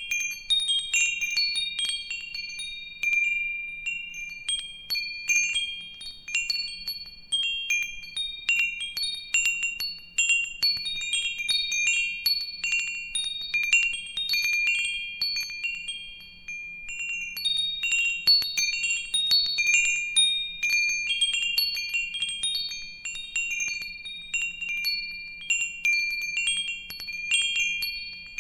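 Metal wind chimes ringing continuously, their high tones struck in irregular, overlapping clusters as the chimes swing into one another, with a faint low hum beneath.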